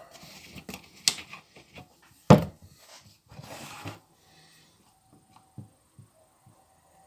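Irregular knocks and clatter, with one loud sharp knock a little over two seconds in, a short scraping noise around three and a half seconds, then a few faint ticks.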